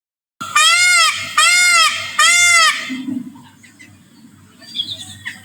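Indian peafowl (peacock) calling three times in quick succession: loud, wailing calls that each rise and fall in pitch.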